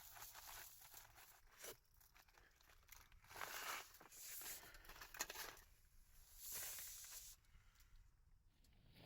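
Faint crinkling and rustling of plastic being handled, in several swells about a second long each, the longest about three and a half seconds in and again about six seconds in.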